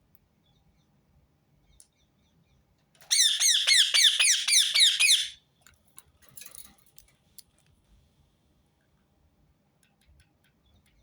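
Rose-ringed parakeet giving a quick run of about ten loud, shrill screeching calls lasting about two seconds, starting about three seconds in, followed by a few faint clicks.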